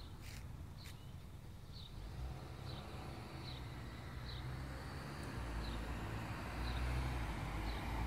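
A small bird repeats a short, high chirp about once a second. Under it a car's engine and tyre rumble grows steadily louder and is loudest near the end as the car passes on the street.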